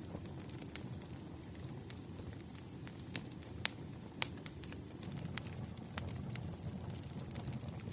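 Firewood fire crackling: irregular sharp pops and snaps over a steady low rumble.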